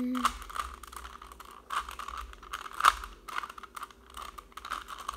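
Rubik's cube being turned by hand, its plastic layers clicking and clacking in quick, irregular turns, with one louder clack about three seconds in.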